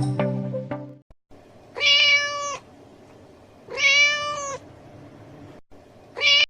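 A domestic cat meowing, two meows of nearly a second each about two seconds apart, and a third just starting at the end. Music trails off in the first second.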